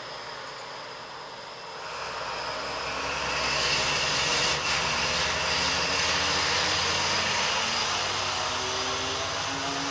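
A vehicle accelerating. A steady rumble swells from about two seconds in, with a whine rising slowly in pitch over it, and it is loudest from about three and a half seconds on.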